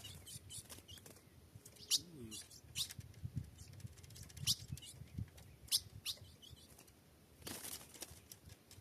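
Ultramarine grosbeak (azulão) giving scattered short, sharp, falling chip notes, about one every second or so, with a brief rustling burst near the end.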